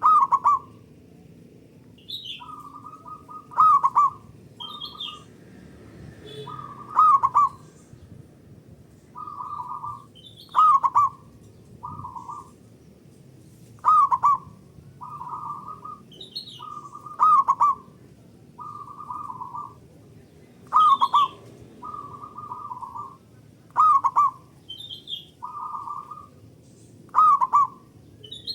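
Local perkutut (zebra doves) cooing in repeated short rolling phrases. Loud phrases come about every three seconds, with softer phrases answering in between.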